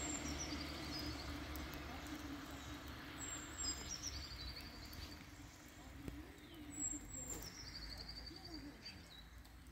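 A songbird sings a short high phrase of falling notes ending in a trill, twice, about seven seconds apart, over a low rumble that slowly fades away.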